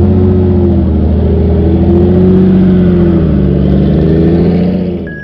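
Car engine and exhaust running loud at raised revs, its pitch rising to a held level and then swelling and dipping gently, cut off abruptly at the end.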